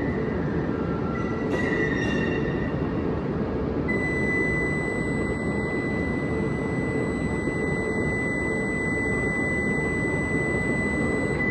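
H5 series Shinkansen pulling slowly out of the station: a steady rumble from the moving train, with a few short pitched tones between one and two seconds in and a high steady tone from about four seconds in.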